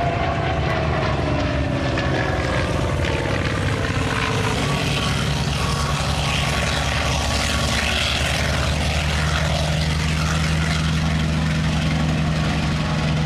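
Propeller-driven WWII warbird's piston engine running loud and steady during a low fly-by, its note falling in pitch over the first few seconds as it passes.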